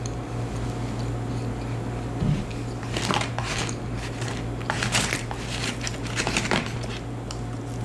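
Eating close to the microphone: a run of short crisp clicks and crunches in the middle, over a steady low hum.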